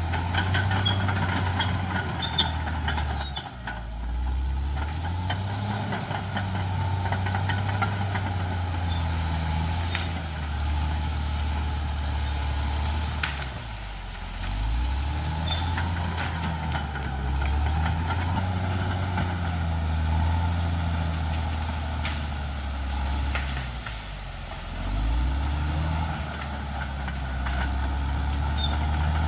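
Caterpillar D6R XL bulldozer's diesel engine running under load, its note sagging and picking up again three times. A sharp crack comes about three seconds in.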